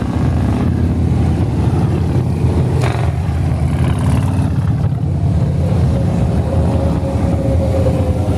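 Convoy of many motorcycles riding past, their engines running together in a continuous loud rumble, with a brief sharp sound about three seconds in and a steady tone, like a held horn, near the end.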